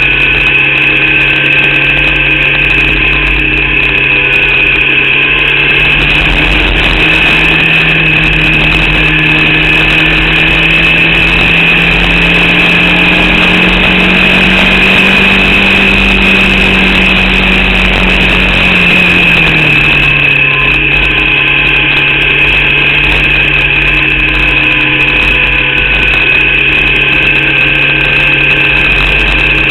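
Formula Vauxhall race car's eight-valve four-cylinder engine running steadily, its pitch climbing slowly for about ten seconds and then dropping sharply about two-thirds of the way through, with a steady high whine above it. The engine is misfiring and down on power from an alternator/battery fault.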